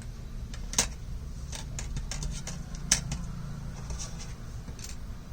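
Small clicks and taps of smartphone parts being handled and fitted together during reassembly, two sharper ones about a second in and near three seconds, over a low steady hum.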